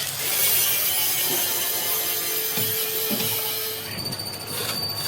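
Power tool cutting or grinding steel plate: a harsh, hissing grind for about four seconds, then a steady high whine.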